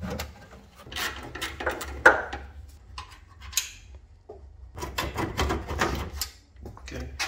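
Irregular knocks, scrapes and clatter of parts being handled and worked loose on an old BMW E30's front end, loudest about two seconds in and again around five to six seconds.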